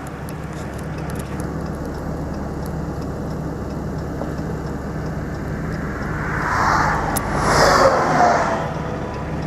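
A stopped vehicle's engine idling with a steady low hum, and another vehicle passing on the road, swelling up about six and a half seconds in and fading away after about two seconds.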